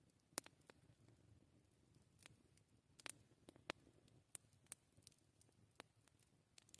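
Wood campfire crackling quietly: scattered sharp pops and snaps at uneven intervals, about a dozen in all, the loudest just under half a second in.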